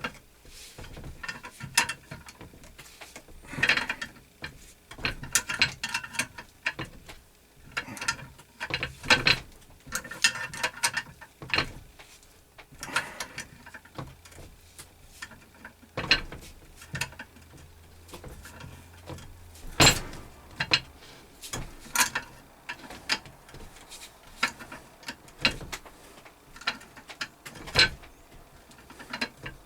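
Irregular metal clicks, rattles and scrapes of hand tools working on the parts of a 1x42 belt grinder, with one sharp, louder click about 20 seconds in.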